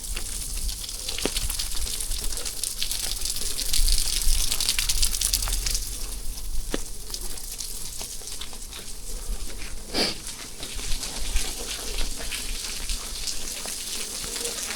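Steady rain with water gushing and splashing, full of small drop ticks; one sharper tap about ten seconds in.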